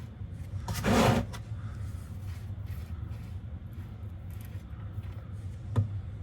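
A drain pan scraped briefly across the floor as it is repositioned under the transmission, about a second in, over a steady low hum; a single sharp click near the end.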